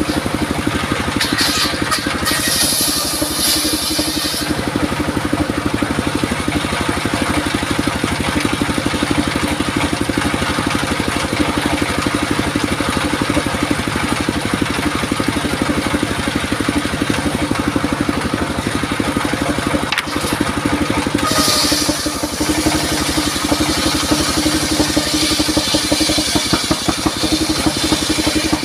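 Engine-driven circular saw machine running steadily with a fast, even pulse; a higher hiss comes in about a second in and again past twenty seconds as the blade cuts durian wood.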